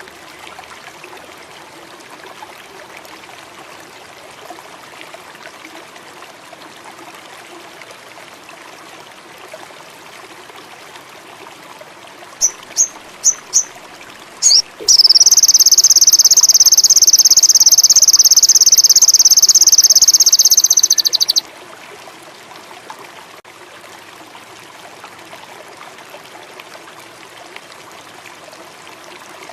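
A sogon indigo songbird gives three short high chirps and another a moment later, then a loud, unbroken high buzzing trill lasting about six seconds. A steady watery hiss runs underneath.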